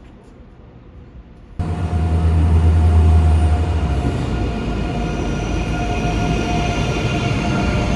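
A Deutsche Bahn ICE 3M high-speed electric train arriving at the platform. The sound starts abruptly about one and a half seconds in with a deep hum, loudest over the next two seconds, and steady high whining tones run over it.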